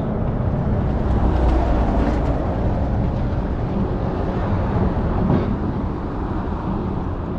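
Steady low rumble and noise of road traffic running across a highway bridge.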